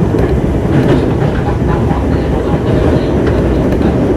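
JR East 205 series electric train running, heard from inside a motor car: a steady low rumble of wheels on rail, with scattered clicks from rail joints.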